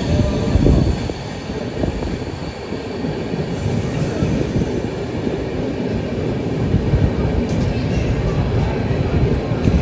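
Passenger express train running along a station platform as it arrives, heard from on board: a steady rumble and rattle of the coaches' wheels on the rails.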